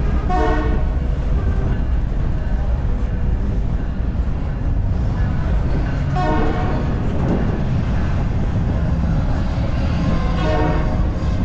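CPKC Holiday Train rolling in with a steady low rumble, and three brief pitched tones, at the start, about six seconds in, and near the end.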